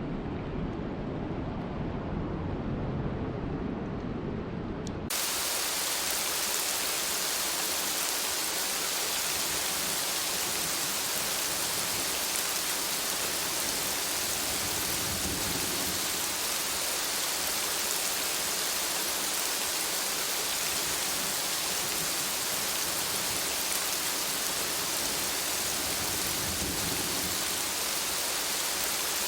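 A low rumbling storm noise cuts off abruptly about five seconds in, giving way to heavy rain hissing steadily.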